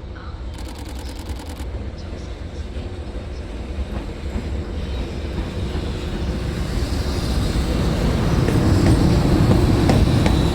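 EH500 electric locomotive hauling a freight train as it approaches, its rumble growing steadily louder. Sharp wheel clicks over the rail joints begin near the end.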